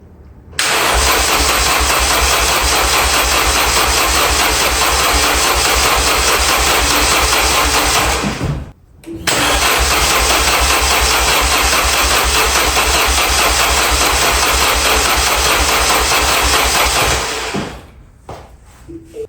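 Car engine being cranked by its starter in two long tries of about eight seconds each, with a short pause between them and a fast, even pulse of the compression strokes. It does not catch and run; the attempt is on a jumper pack to a battery that is low.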